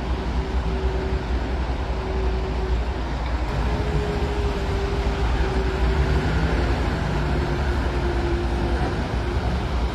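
Heavy diesel earthmoving machinery running steadily: a low engine rumble with a faint whine that wavers slightly in pitch.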